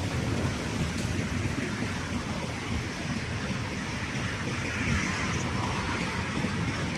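Wind buffeting the microphone outdoors, a gusty, unpitched rumble with a steady hiss above it.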